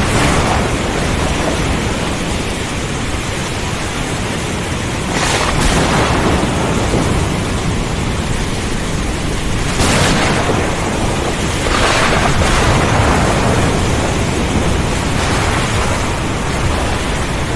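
Thunderstorm: heavy rain and strong wind in a dense, steady hiss with a low rumble of thunder underneath, swelling louder a few times, about five, ten and twelve seconds in.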